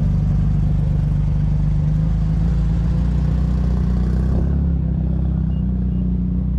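Car engine idling with a steady, deep rumble; its note shifts slightly about four seconds in.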